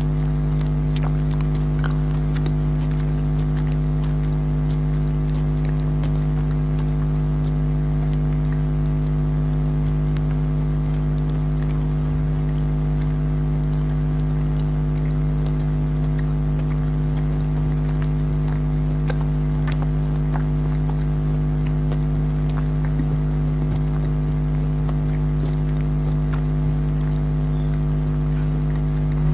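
A loud, steady low hum, unchanging throughout, with faint scattered clicks of jelly candies being bitten and chewed.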